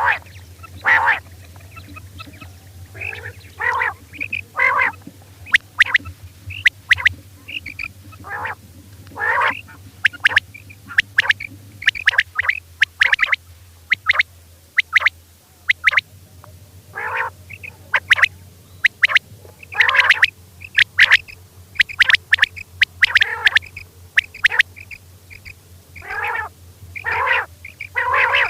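Female quail giving short repeated calls in irregular bursts, mixed with sharp clicky notes, over a faint steady low hum.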